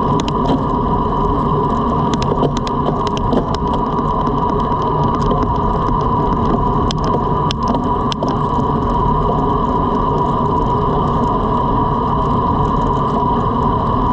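Wind rushing over the microphone of a road bike ridden at speed, with tyre noise on the road and a steady hum. Scattered sharp clicks come in the first half.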